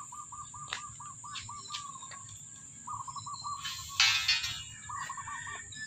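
A bird calling in fast runs of short, even notes, three bouts in all. About four seconds in there is one brief loud scraping rustle.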